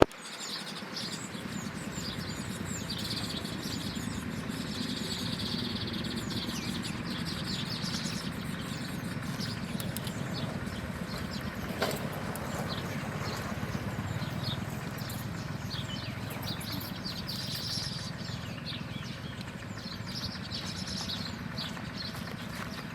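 Small birds chirping in quick, repeated short calls over a steady low rumble, with one sharp knock about halfway through.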